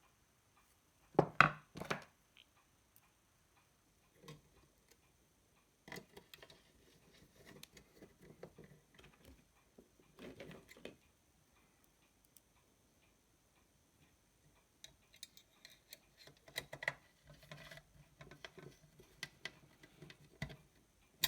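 Scattered light clicks and small knocks of parts and tools being handled on a workbench, with long quiet gaps between them and a busier run of small clatters near the end.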